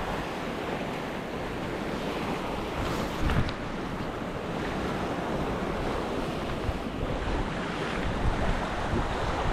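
Strong wind buffeting the microphone over waves washing against the shore, with a brief thump about three seconds in.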